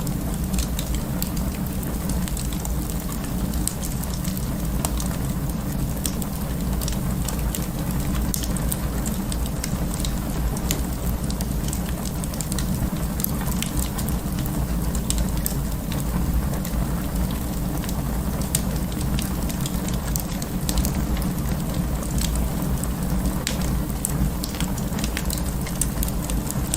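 Wood fire burning in an open fireplace: a steady low rumble of flames with frequent, irregular sharp crackles and pops.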